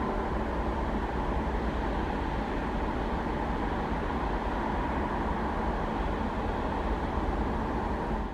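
Express train passing at speed: a steady rumble of wheels on rail and rushing air, unchanging in loudness.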